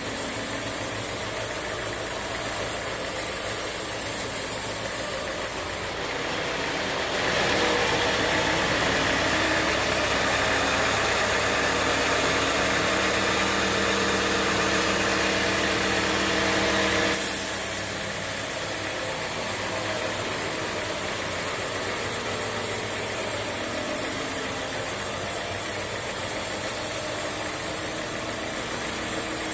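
Band sawmill machinery running steadily. From about six seconds in, for roughly ten seconds, it grows louder and brighter, with a hiss on top, then settles back to the steadier running sound.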